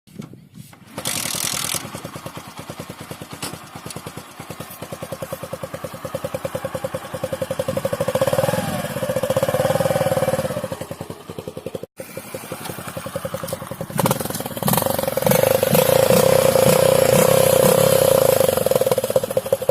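Bajaj Discover 100M single-cylinder motorcycle engine revving through its silencer, which has a tin can taped over the outlet to give it a louder, KTM Duke-like exhaust note. The revs rise and fall, the sound breaks off abruptly at a cut about twelve seconds in, then comes back and is held high and steady near the end.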